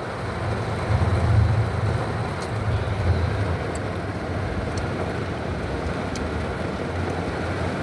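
Heavy rain pelting a car's roof and windshield, heard from inside the cabin as a steady hiss with a low, wavering rumble underneath.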